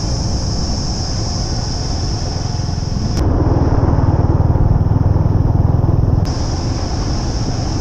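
Steady high-pitched chorus of crickets in the trees, over a low rumble. The insect chorus cuts out abruptly for about three seconds in the middle while the rumble gets louder, then returns.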